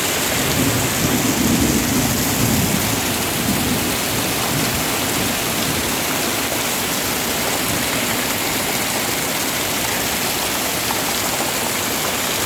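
Rain falling steadily, an even hiss of noise without a break.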